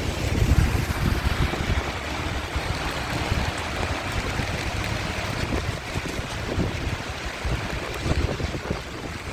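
Steady hiss of rain falling on a city street, with gusts of wind rumbling on the microphone.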